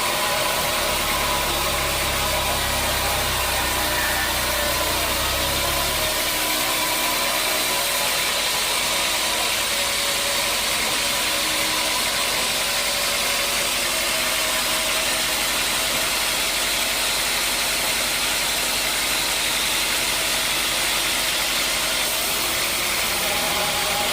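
Sawmill machinery running steadily while sawing a hard acacia log, a continuous engine-and-blade noise. A low rumble beneath it drops away about six seconds in.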